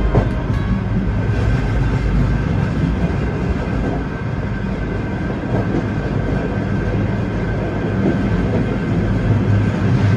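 Diesel passenger train running along the line: a steady rumble of wheels on rail with a continuous droning hum.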